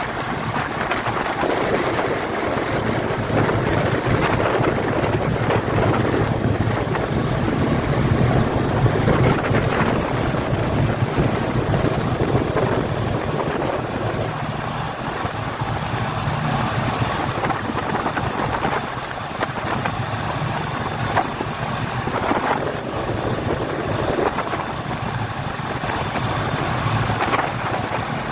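Speedboat engine running steadily under way, with wind buffeting the microphone.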